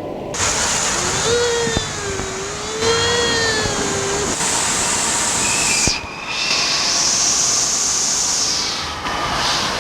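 Rushing water and echoing hiss of an indoor water park, changing abruptly several times. A long wavering cry is heard from about a second in until past the middle.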